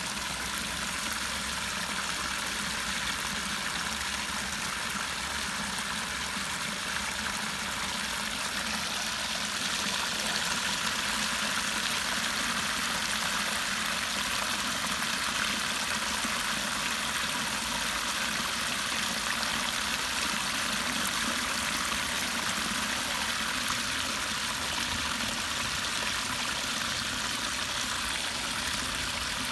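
Water rushing steadily through a drain, a continuous even flow that grows slightly louder about ten seconds in.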